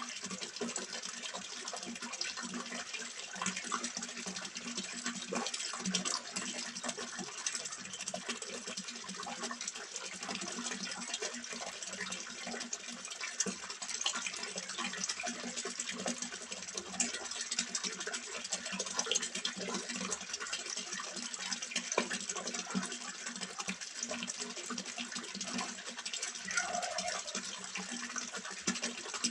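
Water splashing and trickling steadily into a small fish pond, a continuous patter of small splashes, over a faint steady low hum.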